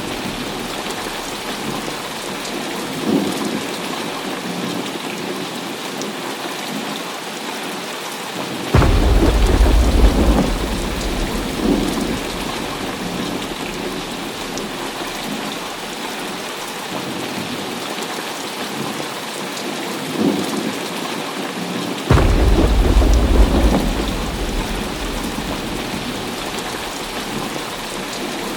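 Heavy rain falling steadily, with two claps of thunder breaking in suddenly, about nine seconds in and again about twenty-two seconds in. Each rumbles for a few seconds before fading back under the rain, and fainter distant rumbles come in between.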